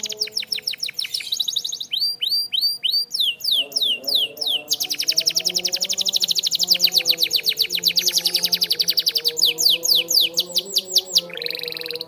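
Canary singing a run of fast trills: rapidly repeated notes, with some phrases of short falling sweeps, and the song changing to a new trill every second or two.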